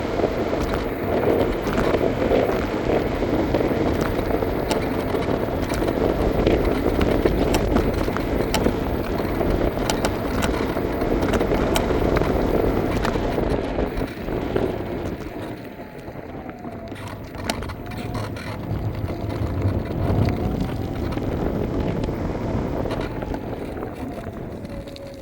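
Electric scooter in motion: a steady rumble of wheels and wind with frequent small rattling clicks. About halfway through it turns quieter, and a faint whine shifts in pitch, falling near the end.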